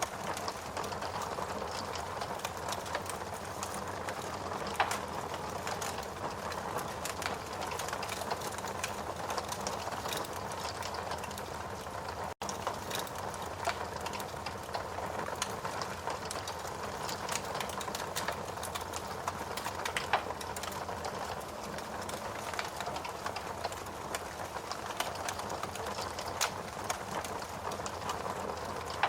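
Wood fire burning in a fireplace: a steady hiss full of small crackles, with a few louder pops about five and about twenty seconds in. The sound cuts out for an instant near the middle.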